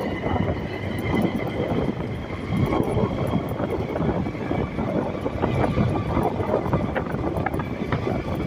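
A vehicle's steady rumble while on the move.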